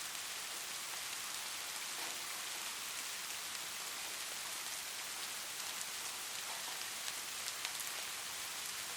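Steady rain, with individual drops ticking on a surface that come a little more often in the second half.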